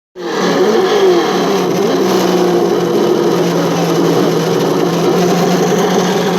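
Radio-controlled truck's motor running, starting abruptly; its pitch rises and falls over the first couple of seconds, then holds at a steady hum.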